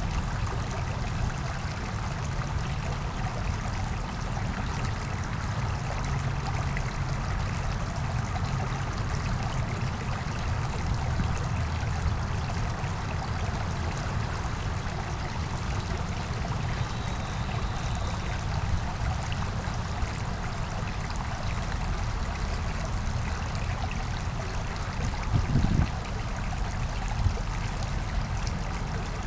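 Small brook babbling steadily over rocks, an even rush of flowing water. A brief low bump sounds near the end.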